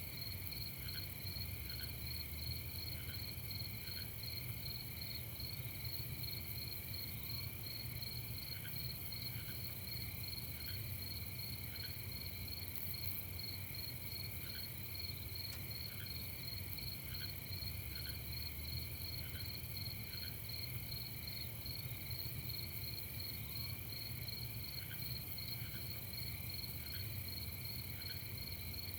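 Night chorus of crickets chirping in a steady, rapidly pulsing trill, with a second, lower call of short single notes repeating about once a second in groups. A low steady rumble lies underneath.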